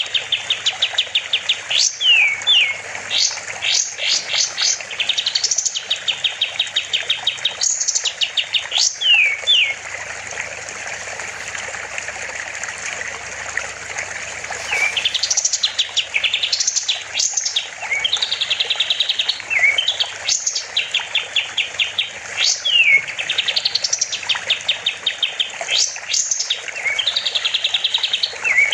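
A kapas tembak songbird singing loud, repeated phrases: fast rattling trills mixed with quick rising and falling whistles. It pauses from about ten to fifteen seconds in, leaving a steady hiss, then resumes.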